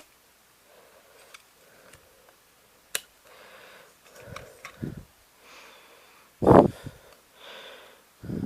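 A person breathing close to the microphone, soft regular breaths, with a sharp click about three seconds in, a couple of low knocks, and a loud low thump about six and a half seconds in, which is the loudest sound.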